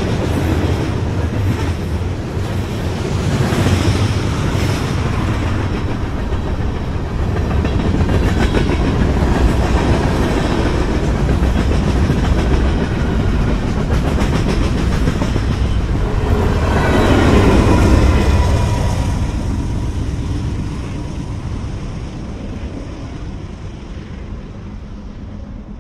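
Freight train's cars, covered hoppers and boxcars, rolling past on steel wheels, loudest about two-thirds of the way through, then fading over the last few seconds as the end of the train goes by.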